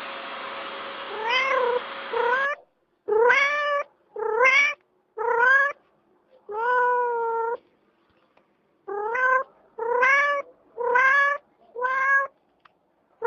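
A cat meowing over and over, about ten calls each rising in pitch, one near the middle longer and flatter than the rest.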